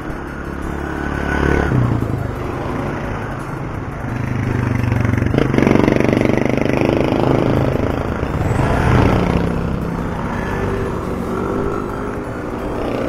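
Road traffic passing close by: the engines of motorcycle-sidecar tricycles running over steady road noise. It is loudest from about five to nine seconds in, where the engine pitch rises.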